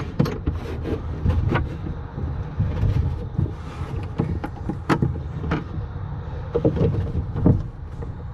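Irregular knocks and clatter of metal parts being pushed into place and bolted onto an ATV, over a steady low hum.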